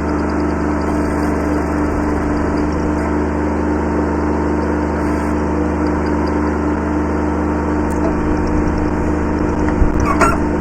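Kubota B7100 subcompact tractor's three-cylinder diesel engine running steadily while working. A couple of sharp knocks near the end, from the loader or backhoe.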